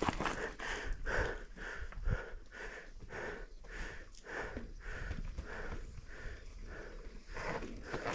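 A mountain biker's rapid, rhythmic hard breathing while riding, about three breaths a second.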